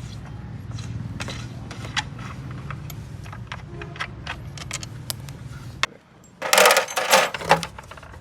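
Workshop sounds of metal tools and parts: scattered sharp clicks over a steady low hum that cuts off about six seconds in, followed by a loud burst of metallic jangling and clattering.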